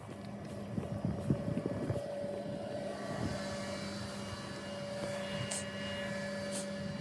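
A machine running steadily with a held hum and a higher whine, more high whining tones coming in from about three seconds in, and a few light knocks in the first two seconds.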